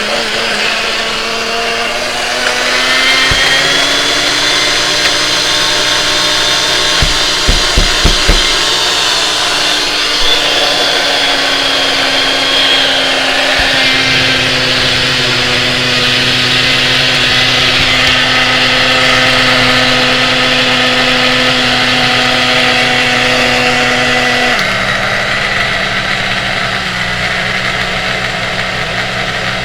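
Electric blender motor running with a jar packed with ice cream, mix-ins and milk. The whine rises in pitch a few seconds in, a cluster of sharp knocks comes about 7 to 8 seconds in, and the pitch steps down near the end. The thick load is not blending through well.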